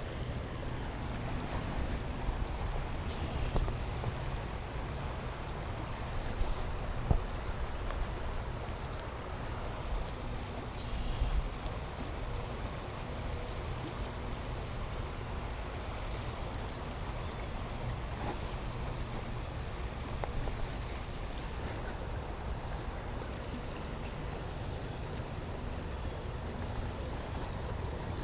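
Steady rush of a flowing creek with low wind rumble on the microphone, and a couple of brief clicks about a third of the way through.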